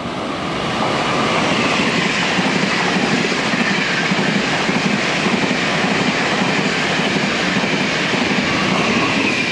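Train passing close by at high speed: loud, steady rush of wheels on rail with a rapid clatter, swelling in over the first second.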